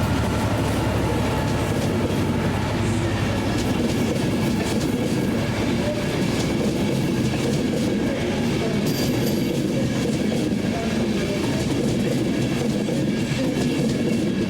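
A train running through the station close by, a steady loud rumble that holds level.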